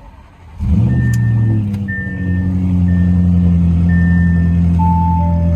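Audi S6 with an AWE aftermarket exhaust cold-starting: the engine catches about half a second in, flares briefly, then settles into a steady cold-start idle. A series of short electronic beeps sounds over it, higher-pitched at first and lower near the end.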